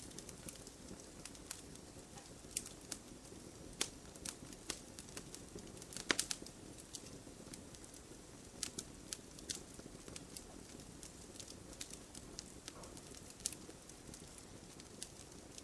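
Wood campfire crackling: irregular sharp pops and snaps over a low, steady rumble of the flames, with a quick cluster of louder pops about six seconds in.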